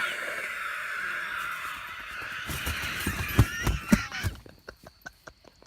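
A man's exaggerated smoker's cough: a long, wheezing, squealing rasp that breaks into a few heavy coughs, followed by short clicking sounds.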